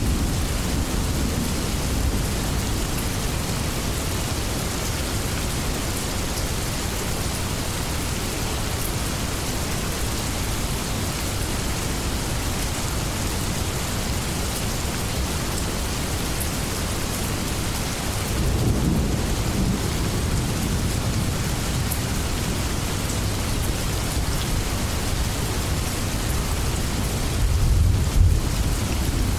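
Steady rain falling on leaves, with low rumbles of distant thunder swelling up about two-thirds of the way through and again near the end.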